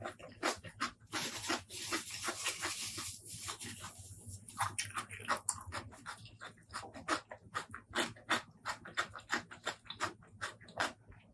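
Close-miked eating sounds: rapid wet chewing and mouth smacks, with a longer hissing stretch from about one to three seconds in.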